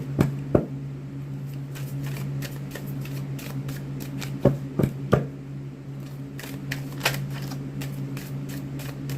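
A tarot deck being shuffled by hand: irregular soft clicks and flicks of cards, with a few sharper snaps about half a second in and again around four and five seconds. A steady low hum runs underneath.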